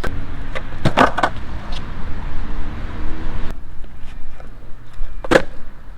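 Longboard wheels rolling on pavement, with a few sharp clacks of the board about a second in. The rolling stops suddenly about three and a half seconds in, and one short sharp sound comes near the end.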